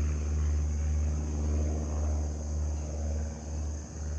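Propeller engine of a light single-engine plane droning steadily overhead, running again after an in-flight engine failure and restart. The drone gently swells and fades.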